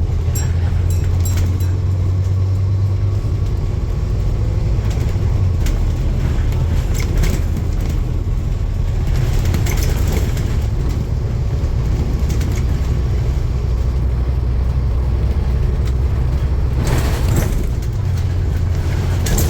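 Steady low rumble of a running motor vehicle, with scattered light clicks and rattles.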